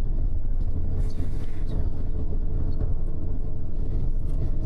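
Steady low rumble of a double-decker bus's engine and tyres on the road, heard inside the passenger cabin, with a faint steady hum above it.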